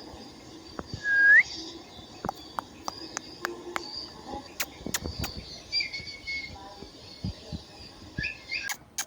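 Indian ringneck parrot giving a short rising whistle about a second in, then fainter whistled chirps near the middle and end. Scattered sharp clicks run through it.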